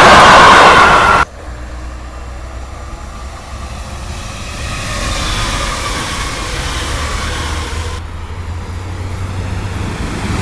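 Passing trains on an electrified line. A yellow track-maintenance train's wheels rumble loudly on the rails and cut off abruptly about a second in. A red electric multiple unit then runs by more quietly with a falling whine, and near the end a locomotive-hauled double-deck train is heard approaching, growing louder.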